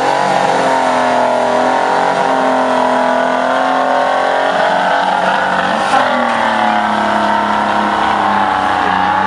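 Detroit Diesel 3-53 two-stroke three-cylinder diesel in a one-ton Toyota pickup, running hard under load while pulling the sled. Its engine note wavers, then drops sharply about six seconds in.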